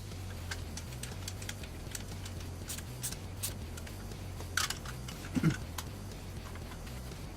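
Small plastic and metal clicks and taps from computer parts being handled and fitted into a PC case, with a louder knock about five and a half seconds in, over a low steady hum.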